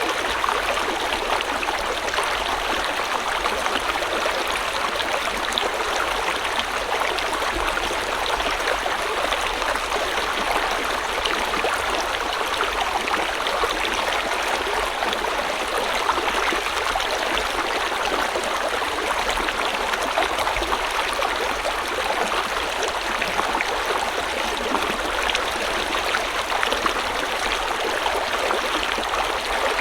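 River water flowing over stones in a steady, even rush with fine babbling.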